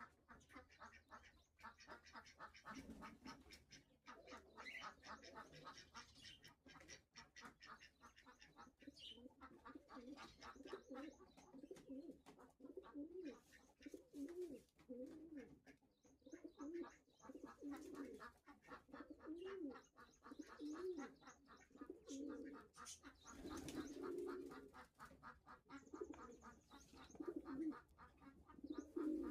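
Faint pigeon cooing: a run of low, soft, repeated coos.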